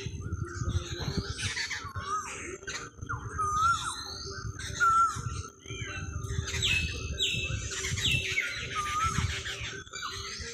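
Several birds calling: a short hooked whistle repeated about once a second, mixed with higher chirps and rasping squawks, over a low steady rumble.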